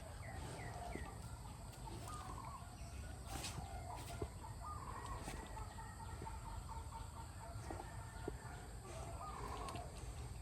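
Faint short animal calls, repeated many times at irregular intervals over a low steady rumble, with a few light clicks.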